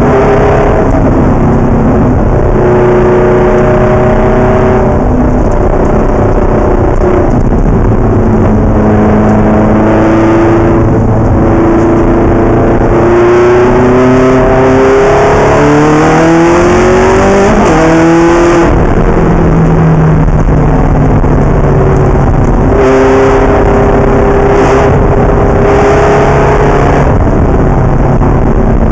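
Ferrari race car engine running hard through the gears, very loud. Its pitch holds, climbs and drops back in steps as it shifts, with one long climb in the middle that breaks off sharply.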